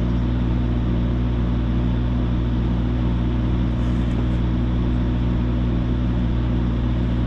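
Engine of the machine holding the hoisted engine, running at a steady speed with an even, unchanging hum.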